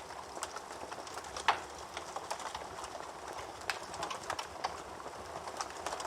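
Wood fire burning in a fireplace, crackling with irregular small pops over a soft hiss, and one louder pop about a second and a half in.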